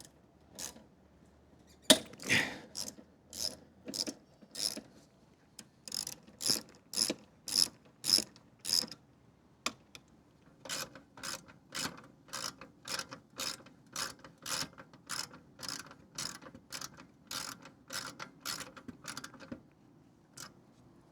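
Hand ratchet wrench worked back and forth to loosen a bolt, clicking in strokes about twice a second, starting about two seconds in, with a brief pause around the middle.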